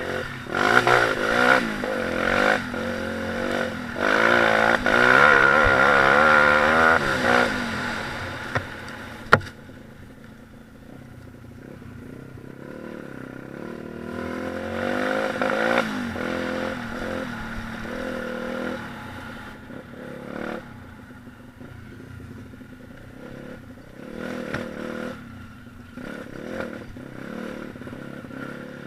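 Pit bike's small single-cylinder four-stroke engine revving, rising and falling in pitch, loudest in the first eight or nine seconds, with a sharp click about nine seconds in. It then runs quieter, with further revs swelling and dropping.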